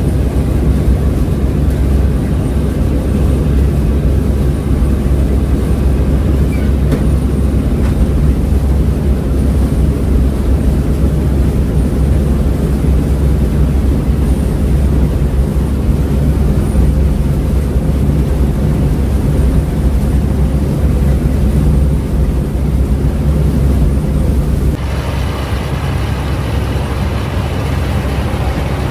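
Claas Mercator 50 combine harvester running steadily with a deep, continuous engine drone. Near the end the sound changes abruptly, with less low rumble and more higher machinery noise.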